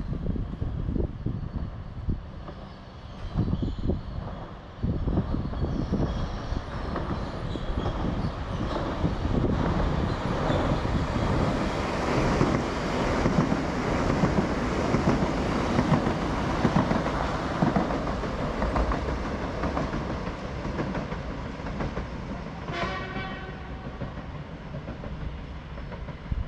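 A train passing below, its wheel and running noise building from about five seconds in and easing off after about twenty seconds. A brief pitched tone sounds near the end.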